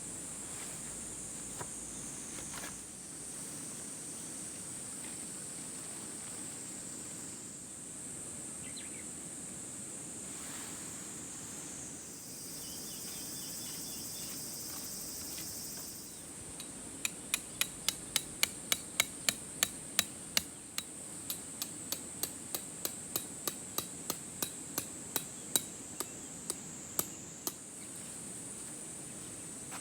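A hammer strikes about three times a second for some ten seconds, starting a little past the middle, over a steady high buzz of insects. A louder insect buzz rises in for a few seconds before the hammering.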